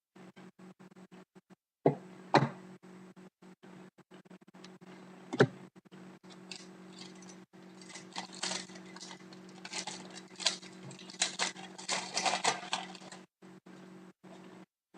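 Hockey trading cards being handled and sorted by hand: a few sharp clicks and taps, then a run of dry rustling and scraping of card stock, over a steady low hum.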